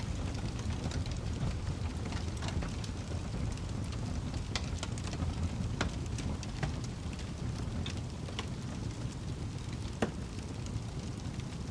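Wood fire crackling: a low steady rumble under scattered sharp pops and crackles, the loudest pop about ten seconds in.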